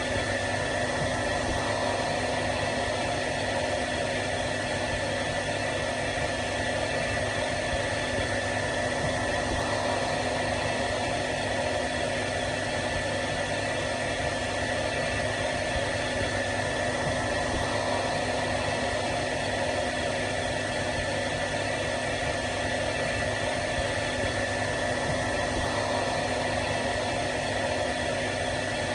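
Hair dryer running steadily: an even blowing hiss with a constant hum in it, unchanging throughout.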